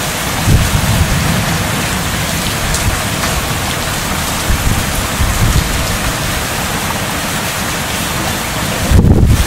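Heavy rain pouring down steadily, with a gust of wind buffeting the microphone near the end.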